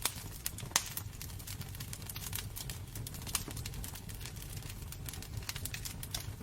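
Wood fire crackling in a fireplace: irregular sharp pops and snaps over a steady low rumble, the strongest pops near the start.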